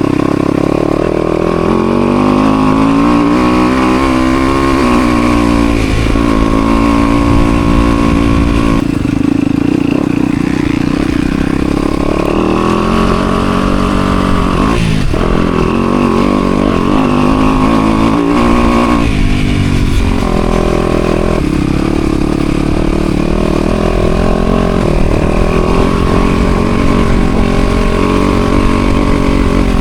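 Motocross dirt bike engine revving hard and easing off again and again through the gears while riding a track, its pitch climbing and falling, with short drops in throttle a few times.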